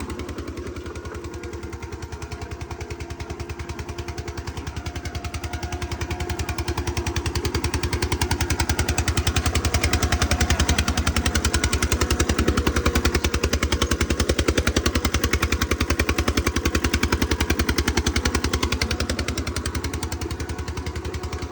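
Eicher tractor's diesel engine running with a rapid, regular knocking beat. It gets louder about eight seconds in, holds there, and eases off near the end.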